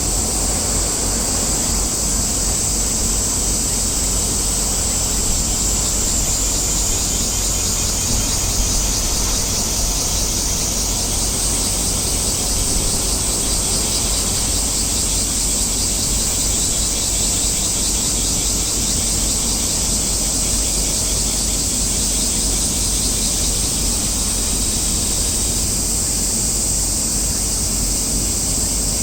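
A steady, high-pitched shrill sound holds throughout over a constant low rumble, with no breaks or distinct events.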